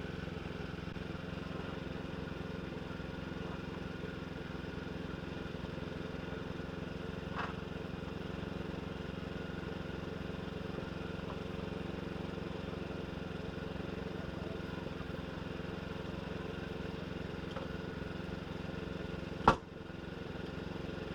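An engine running steadily at a constant speed, with one sharp knock near the end.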